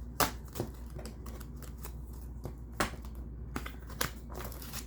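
Tarot cards being shuffled and handled: a run of irregular crisp card flicks and snaps over a low steady hum.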